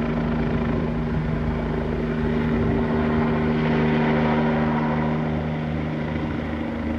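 Police helicopter circling overhead: a steady rotor and engine drone with a low pulsing beat, swelling a little in the middle.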